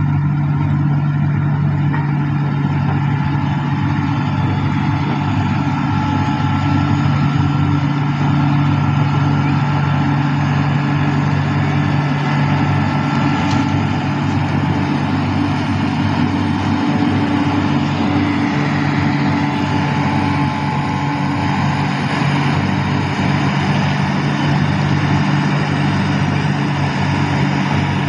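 Heavy diesel engine running steadily at constant speed: an unbroken low drone with no knocks or changes in pitch.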